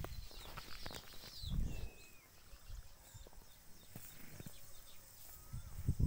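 Small birds chirping: a few quick high chirps in the first second and a short falling whistled note about two seconds in, over a couple of low muffled thumps.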